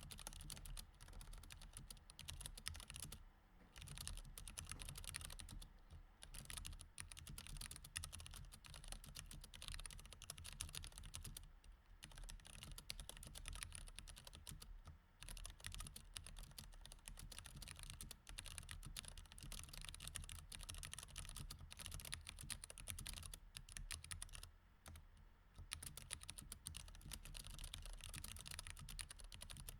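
Typing on a mechanical keyboard with Cherry MX Red switches: a steady, irregular run of key clicks, broken by short pauses a few times.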